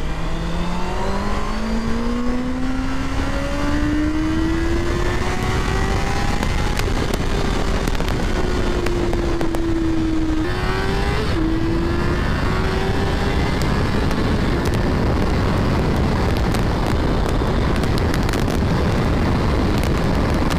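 Honda CBR650R's inline-four engine under hard acceleration, its pitch rising steadily, with a short dip and jump at a gear change about eleven seconds in. In the second half a loud steady rush of wind at high speed drowns the engine, with scattered sharp buffeting clicks.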